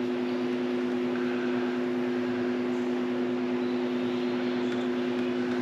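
Steady machine hum with two constant low tones over an even rush of noise, like a fan or other motor-driven appliance running nearby.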